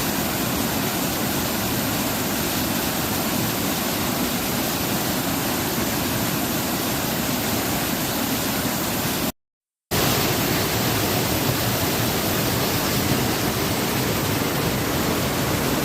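Waterfall rushing, a steady, dense roar of falling water, broken once by a half-second gap of silence about nine seconds in.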